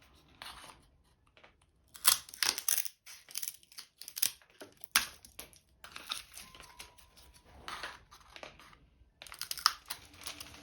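Irregular dry rustling and crinkling with sharp clicks and taps, the sound of hands handling dry material at close range.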